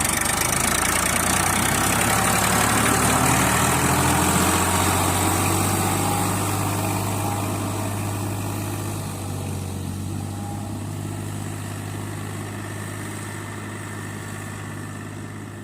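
Tractor diesel engine running steadily at low revs, slowly fading over the second half.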